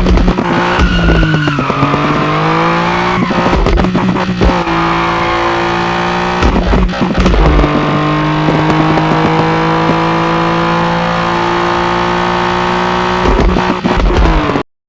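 BMW E30 engine running through a crackling aftermarket exhaust, with bursts of sharp crackles and pops at the start, around four seconds in, around seven seconds in and again near the end, between stretches of steady engine note. The sound cuts off suddenly just before the end.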